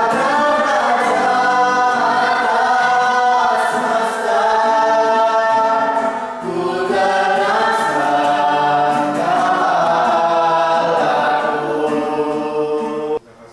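A group of voices singing a Christian worship song together. The singing cuts off suddenly near the end.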